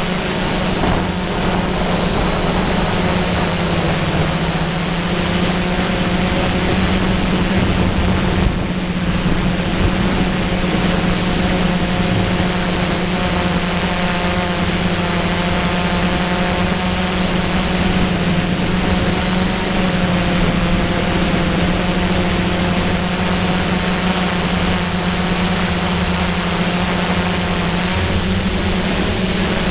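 DJI F550 hexacopter's six brushless motors and propellers humming steadily in flight, with the rush of strong wind over it and a thin high whine.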